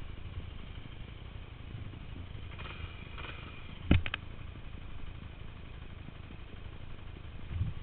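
Dirt bike riding with a steady low engine rumble, and one sharp knock about four seconds in.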